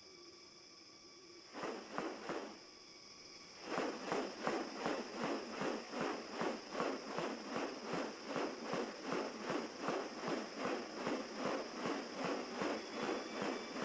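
Footsteps at an even walking pace, about two and a half steps a second, starting about four seconds in after a couple of single steps, over a steady high-pitched insect buzz of the forest.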